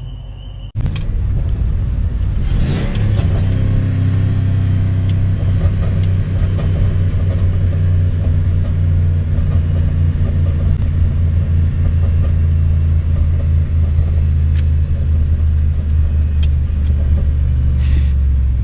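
1997 Ford F-150's 4.6L Triton V8 running through short equal-length headers and an aftermarket exhaust behind the stock catalytic converters. The note rises briefly about two to three seconds in, then settles into a steady, deep idle rumble.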